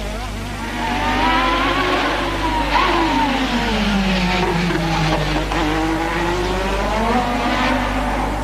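Formula One race car engines at high revs, their pitch falling as the cars brake and shift down, then rising again as they accelerate, with more than one car heard at once.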